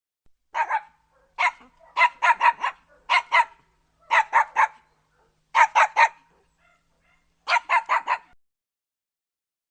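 Dog barking in quick runs of two to four barks, with short pauses between the runs.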